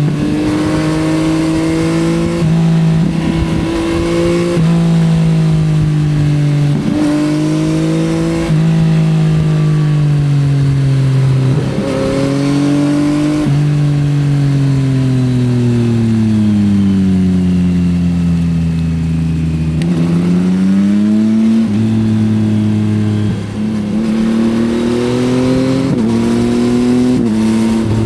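Yamaha XSR900's three-cylinder engine with an Akrapovič exhaust, heard onboard under load. It accelerates through several quick upshifts, then the revs fall for several seconds on deceleration past the middle, then it picks up and climbs through more shifts near the end.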